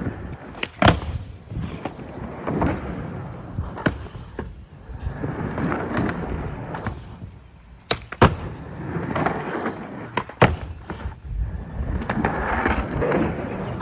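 Skateboard wheels rolling over wet concrete in stretches of noise, broken by sharp clacks of the board, the loudest about a second, eight seconds and ten seconds in.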